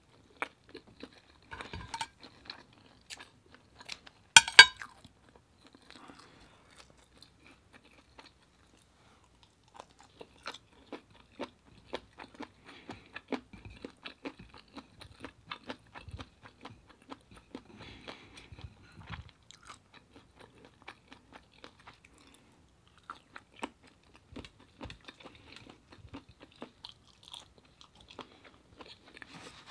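Close-miked eating sounds: wet chewing and small mouth clicks as cuttlefish and rice are chewed, with one louder burst about four seconds in and a quieter spell a few seconds later.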